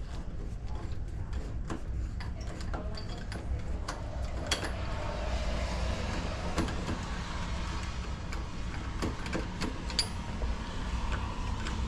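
Scattered clicks and light knocks of tools and lock hardware being handled at a door during a deadbolt installation, over a steady low rumble.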